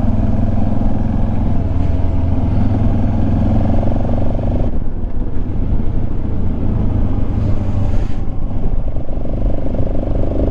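BMW F650 GS motorcycle engine running steadily while riding, with road and wind noise. The engine note drops and changes about halfway through.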